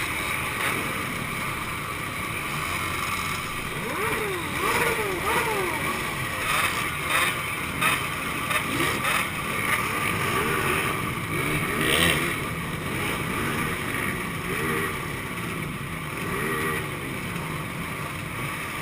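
Two-stroke motorcycle engines running together, with repeated short throttle blips that rise and fall in pitch and overlap one another.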